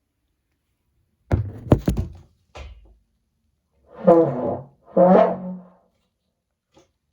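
A cluster of knocks and thuds about a second in, then two short, rough, buzzy low blasts on a French horn, played in imitation of car noises.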